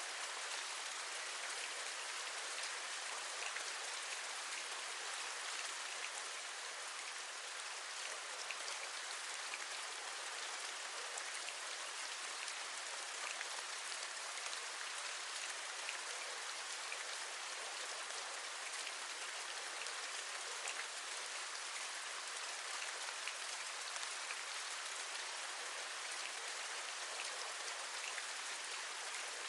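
Steady rain, an even hiss with many small drops ticking against a surface.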